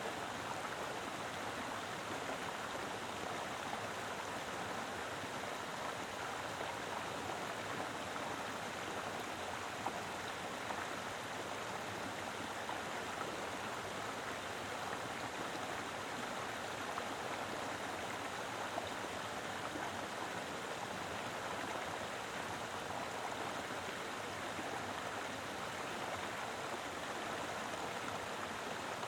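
Mountain river flowing over rocks: a steady, even rush and splash of running water.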